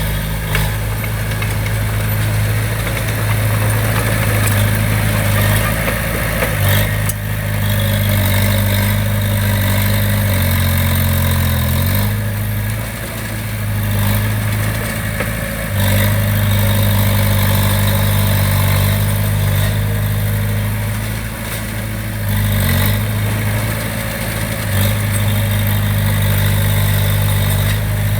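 Heavy construction machine's diesel engine running steadily. Its tone and level dip briefly several times as the revs change, and there are a few short knocks.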